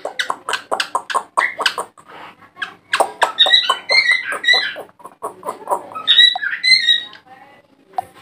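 Pet parakeet chattering in a fast run of short clicky calls, then two bouts of shrill chirping calls, about three and six seconds in.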